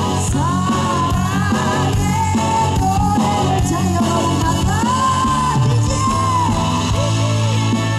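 Live band music with a lead singer holding long, wavering high notes over a steady backing.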